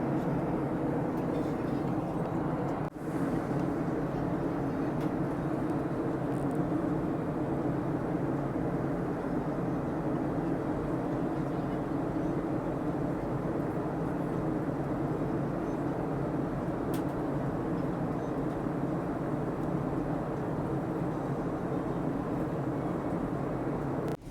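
Steady drone of a jet airliner's cabin in flight during descent: engine and airflow noise with an even level, briefly dipping about three seconds in.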